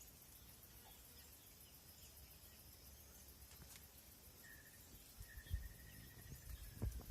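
Faint outdoor quiet with a few distant bird chirps and one long, thin whistled bird note in the second half. A few low thumps come near the end.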